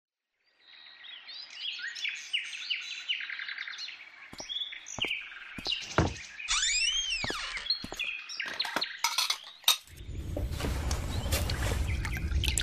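Birds chirping, followed by the clinking of crockery and pots being handled in a kitchen. From about ten seconds in, a steady rushing noise with a low rumble takes over.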